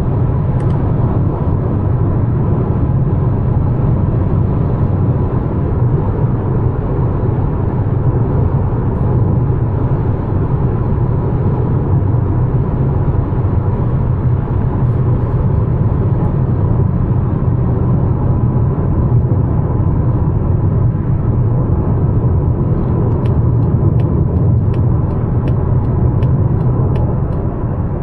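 Cabin noise of a 2025 Mazda CX-5 with the naturally aspirated 2.5 e-SKYACTIV G engine under way: a steady low rumble of road, tyres and engine. Near the end, a light regular ticking comes in at about two a second.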